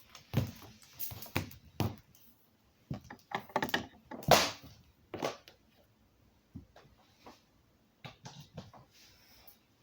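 A series of irregular knocks and clunks, as of hard objects being handled and set down, loudest about four seconds in.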